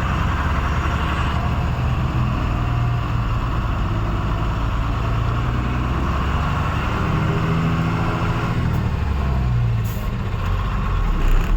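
Truck engine running steadily, its note rising and falling a little after the middle.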